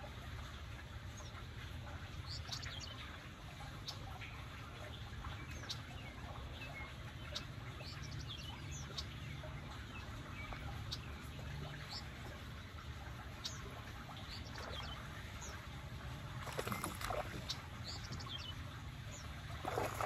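Small birds chirping and calling now and then over a steady low rumble by the pond. Near the end come two short noisy bursts, the second as the water splashes beside the dock.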